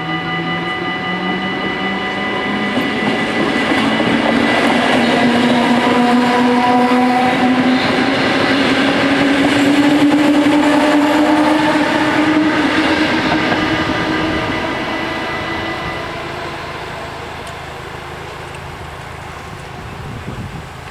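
Mat '64 electric train passing a level crossing, its motor whine rising steadily in pitch as it picks up speed; it is loudest about halfway through, then fades. The crossing bells ring steadily underneath and stop about three quarters of the way in.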